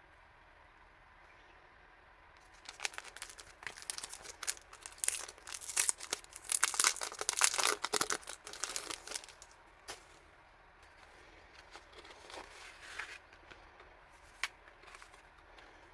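Packaging being crinkled and torn open by hand. A dense crackling starts a few seconds in, is loudest in the middle and dies away after about ten seconds, followed by a few light handling clicks.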